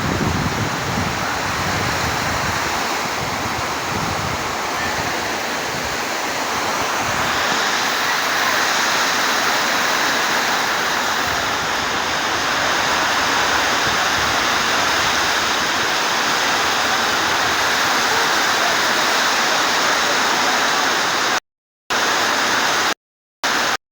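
Heavy rain pouring down, a steady dense hiss. Near the end the sound cuts out completely twice for a moment.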